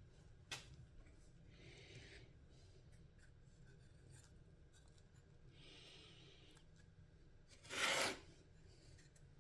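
Light scraping and rubbing strokes of hand work on a small workpiece: a faint click about half a second in, two soft scrapes, and a louder half-second rush of noise near the end.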